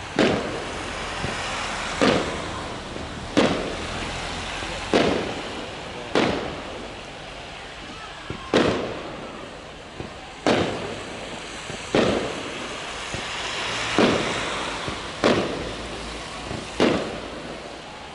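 Fireworks display: a string of loud bangs from aerial shells bursting, about one every second and a half, each followed by a short fading echo.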